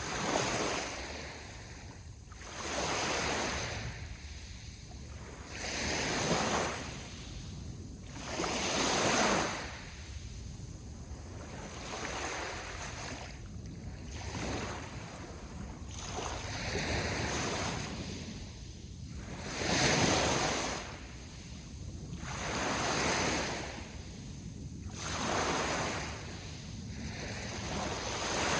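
Sea waves breaking and washing onto the shore, one surge about every two and a half to three seconds, with a steady low rush between them.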